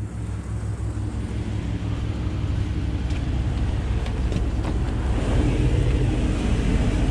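A motor vehicle's engine running with a steady low hum, growing louder over the last couple of seconds.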